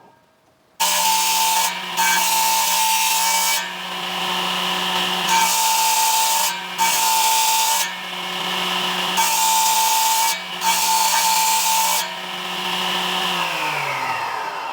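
Electric woodworking power tool running at steady speed and cutting wood in six separate passes of about a second each. Near the end it is switched off and its motor winds down with a falling pitch.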